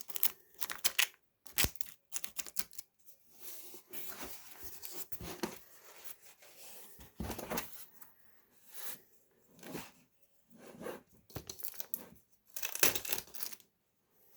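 A shipping package being torn open by hand: ripping and crinkling in irregular bursts, with short pauses between.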